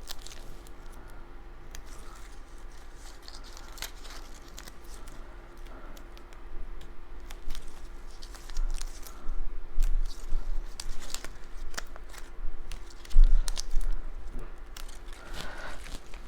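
Paper-crafting handling sounds: cut cardstock pieces rustling and crinkling, with scattered light clicks and taps on the work surface, busier in the second half and sharpest about thirteen seconds in.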